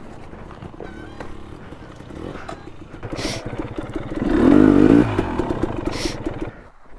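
KTM enduro dirt bike engine running at low revs in a steady pulsing beat, revved hard for about a second around four seconds in, then easing back off. A couple of short scraping sounds come near the middle and toward the end.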